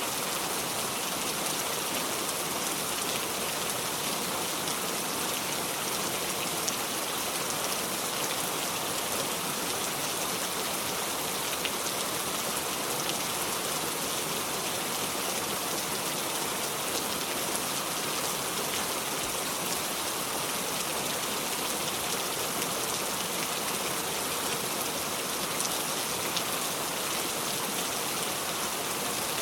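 Steady heavy rain falling, an even hiss of rain on a surface with scattered fine drop ticks, unchanging throughout and with no thunder.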